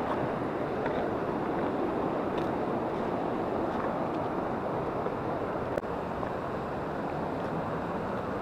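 Steady rush of a mountain river's flowing water, with one faint click about six seconds in.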